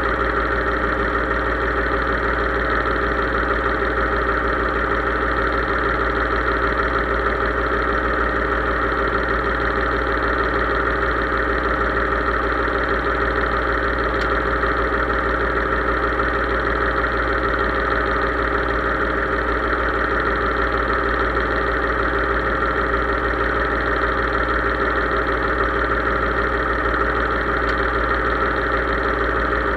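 Case IH 3220 tractor's diesel engine running at a steady speed, its even drone unchanging throughout.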